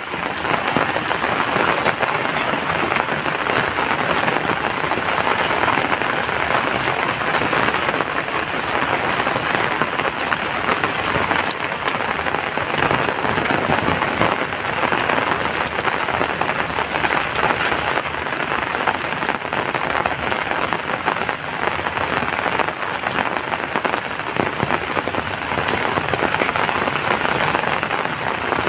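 Heavy rain falling steadily: a dense, even hiss of rain on surfaces that holds constant throughout.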